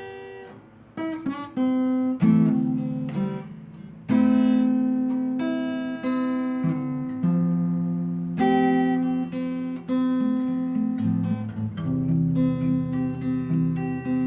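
Acoustic guitar playing: chords struck and left to ring, a new strum every second or two.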